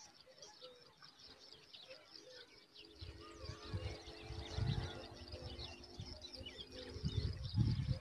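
Many short, high bird chirps repeating throughout. From about three seconds in, a low rumbling joins them, with a steady low drone until about seven seconds in.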